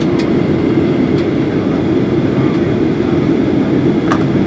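Steady cabin roar inside a Boeing 737-800 in flight, its twin CFM56-7B engines and the airflow heard from a seat behind the wing, with a few faint clicks.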